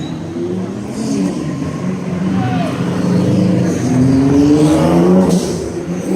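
Car engine revving as the car pulls away, its pitch climbing several times and loudest near the end.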